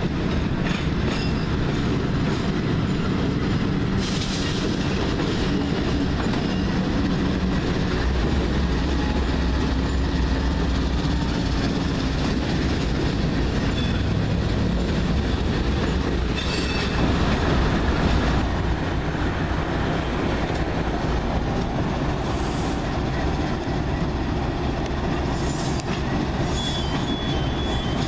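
CSX diesel freight locomotives and their cars rolling past on yard track, with a steady low engine rumble and wheel-on-rail noise. Partway through it changes to another freight's locomotives approaching. Near the end there is a brief high-pitched wheel squeal.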